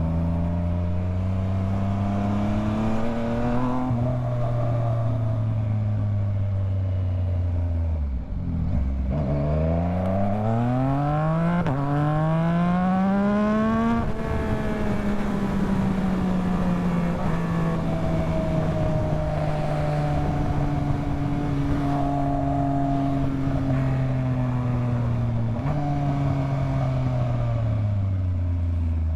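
Yamaha MT-09's inline-three engine under way: the revs fall for the first several seconds, dip sharply about eight seconds in, then climb steeply for several seconds as it accelerates. It settles into a slow easing-off, jumps up once briefly near the end, drops again and starts to climb.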